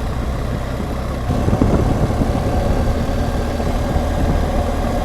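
BMW R1200GSA motorcycle's flat-twin boxer engine running on the move; about a second in its note changes and grows a little louder as the throttle opens.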